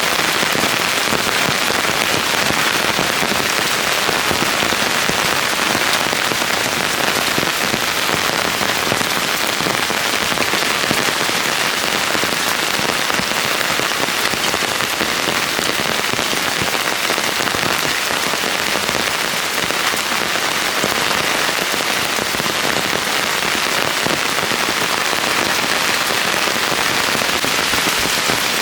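Steady rain falling and pattering on plants and surfaces, a dense even hiss of many drops.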